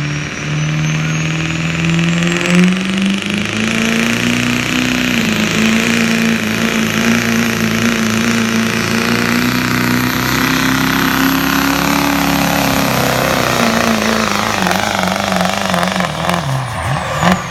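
Duramax V8 turbodiesel pickup under full load pulling a weight sled, its engine note climbing over the first few seconds with a high turbo whistle rising above it. The pitch holds high, then sags and wavers near the end as the sled bogs the truck down and the run ends.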